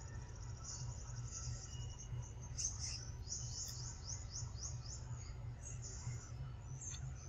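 Birds chirping high and thin, with a quick trill of short falling notes about three seconds in, over a steady low rumble.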